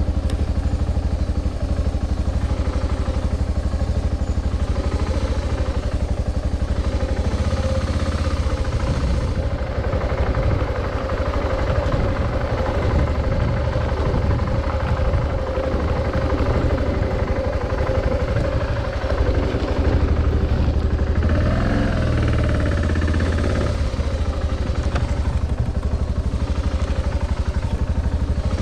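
Adventure motorcycle engine running steadily while riding, with heavy low wind rumble on the microphone; the engine note dips and rises briefly about three-quarters of the way through.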